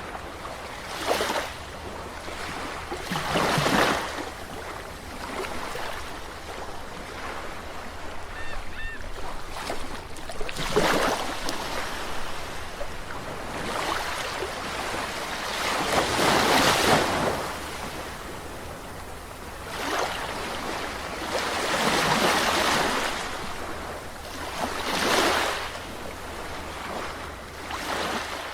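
Sea waves breaking on the shore, each one a swelling wash of surf that rises and falls away, every few seconds.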